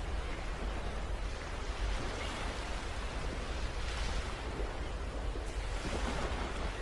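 Wind buffeting the microphone outdoors: a steady rushing noise with an uneven low rumble underneath.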